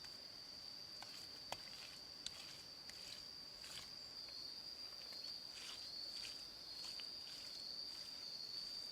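A steady, high-pitched drone of jungle insects, with scattered light clicks and snaps over it.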